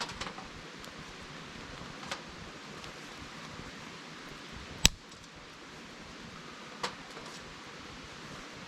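Wood fire burning with a steady hiss and four sharp pops about two seconds apart, the third much the loudest.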